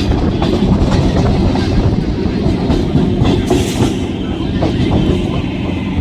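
Indian Railways train running on the track, with a steady heavy rumble and the clickety-clack of wheels over rail joints.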